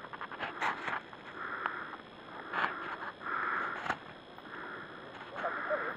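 A person breathing hard in repeated breaths, with short clicks and scrapes like footsteps on rocky ground.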